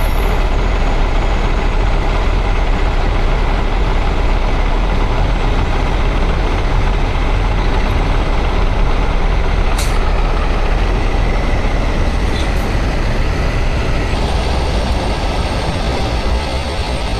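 Steady, loud rumble of a heavy vehicle running, with one short click about ten seconds in.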